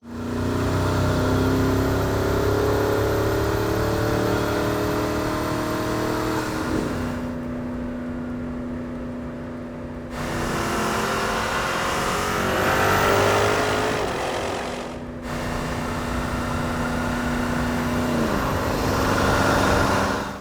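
Porsche Cayenne Turbo GT's 4.0-litre twin-turbo V8 running on the move. It climbs in pitch under acceleration about halfway through and drops back as it eases off. The sound changes abruptly a few times.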